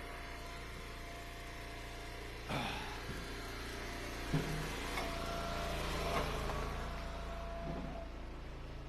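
Wood splitter's gas engine running steadily, with a few faint knocks of wood.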